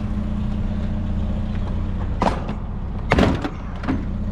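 A motor vehicle's engine idling steadily, with short knocks and rustles about two seconds in and, louder, just after three seconds, as things are moved about in a trash can.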